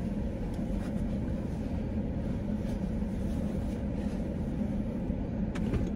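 Steady low rumble of a car's running engine heard from inside the cabin, with a few faint rustles as a hoodie is pulled off.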